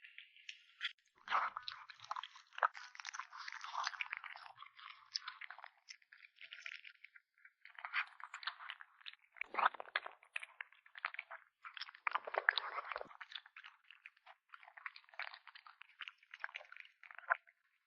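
A kitten chewing its food up close: wet, crackly crunching in quick irregular runs of bites, with brief pauses between them.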